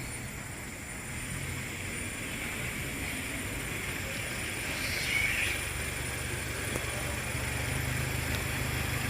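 Steady low hum of a motor vehicle's engine, growing slightly louder towards the end, with a faint steady high-pitched whine above it.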